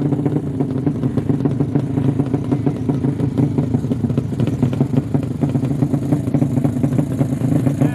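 Motorcycle engine idling steadily with a rapid pulsing beat from its exhaust, held at a low idle as in a sleep engine contest.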